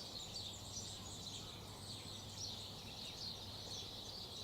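Birds chirping and twittering as a continuous chorus of many short, high calls overlapping, with a faint steady low hum beneath.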